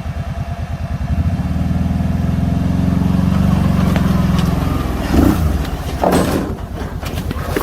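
Motor vehicle engine running with a rapid, even throb that grows louder over the first few seconds. Short harsher bursts of noise join it about five and six seconds in.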